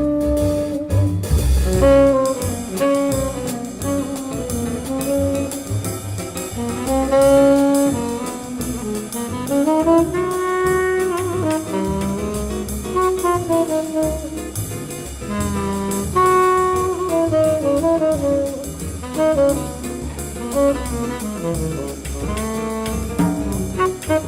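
Instrumental jazz break in a Brazilian-style song: a saxophone plays a gliding melody over double bass and drum kit.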